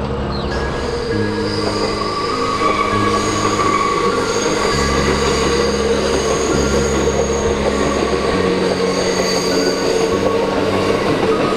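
Kintetsu limited express train running past on curved track, a steady running rumble with high squealing from the wheels, over background music.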